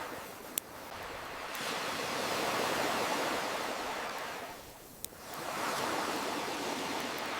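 Ocean waves washing in, the surf rising to a swell about three seconds in, ebbing away, then building again. A campfire crackles under it, with two sharp pops of burning wood, one near the start and one about five seconds in.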